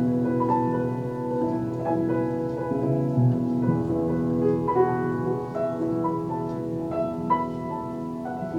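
A slow, simple tune played on a piano-type keyboard: low notes held under single melody notes struck about once a second.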